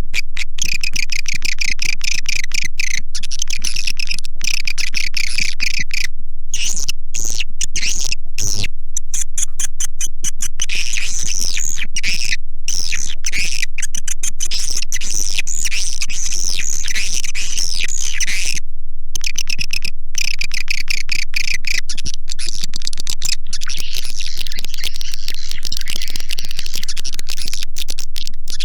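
Swiftlet lure-call recording: a dense, unbroken stream of high twittering chirps and rapid clicks from edible-nest swiftlets, with a few brief pauses. This is the kind of call track played in swiftlet houses to attract the birds to roost and nest.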